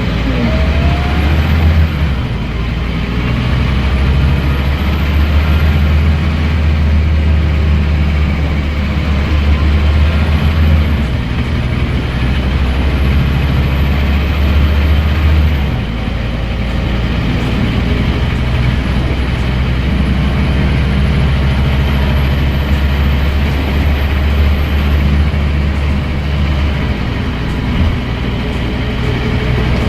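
Scania N230UD bus diesel engine pulling hard through a ZF Ecomat automatic gearbox, with a high gearbox whine that climbs and then drops sharply several times as the box changes gear.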